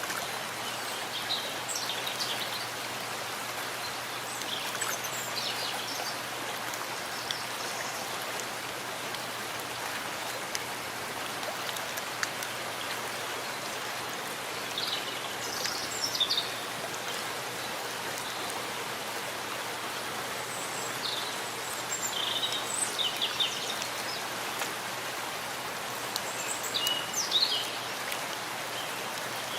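Steady rain falling in a forest, an even hiss. Short high bird chirps come through a few times.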